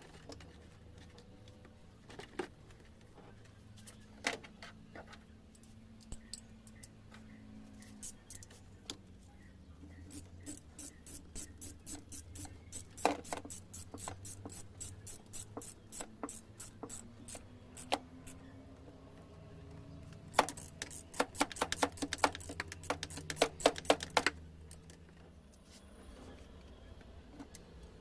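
Runs of sharp clicks: a few scattered at first, then a few clicks a second, then a quicker run of about six a second that stops abruptly, over a faint low hum.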